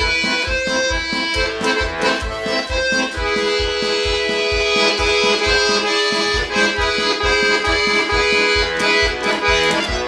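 Bayan (Russian button accordion) playing an instrumental interlude of the song: a held melody over a steady bass-and-chord accompaniment of about two to three beats a second.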